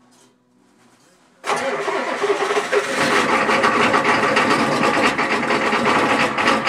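1987 Ford F-250's 6.9-litre diesel V8 being started cold, in freezing weather. The sound comes in suddenly and loudly about a second and a half in and runs on steadily.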